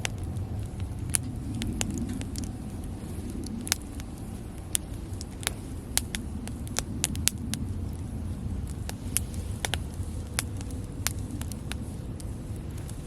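Wood campfire crackling: a dozen or more sharp pops and snaps at irregular intervals over a low, steady rumble.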